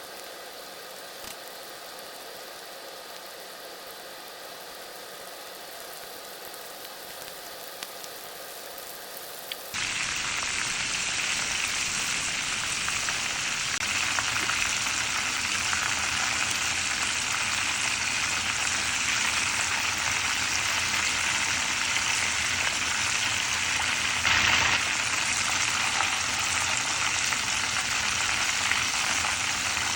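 A steady hum for about the first ten seconds, then loud sizzling starts abruptly: battered chicken drumsticks deep-frying in hot oil, a dense continuous crackle and hiss.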